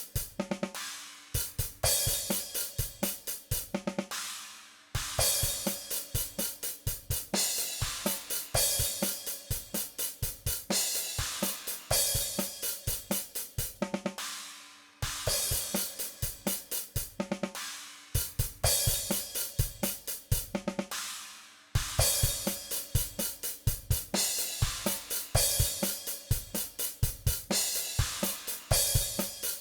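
Virtual drum kit (DrumGizmo samples) playing back a rock beat with hi-hat and cymbals, snare and kick drum. The playback breaks off and restarts a few times.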